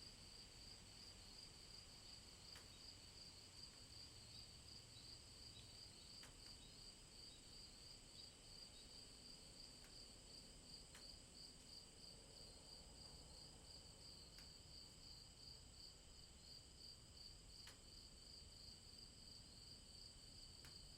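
Faint, steady chorus of night insects in a rainforest: a high, rapidly pulsing trill over other continuous high-pitched buzzing, with a few faint ticks now and then.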